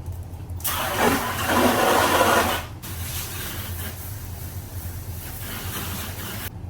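Water splashing onto a car as it is hand-washed: a loud rush for about two seconds, then a softer, hissier rush that cuts off suddenly near the end.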